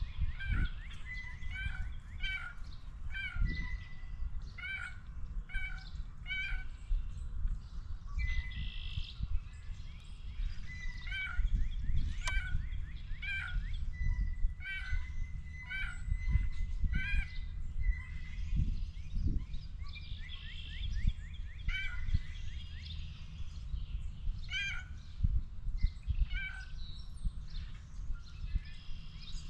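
Birds calling over and over outdoors: short, clear, repeated notes with a few quick trills, over a steady low rumble.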